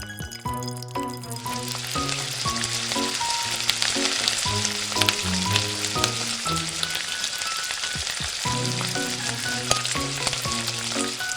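Food frying in hot oil: a steady sizzle with crackles, starting about a second in and stopping just before the end.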